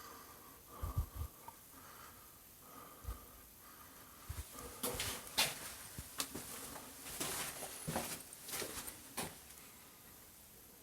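Faint scattered knocks, then scuffing and rustling with sharp clicks for several seconds, as of someone moving about and handling things in a small, debris-strewn room.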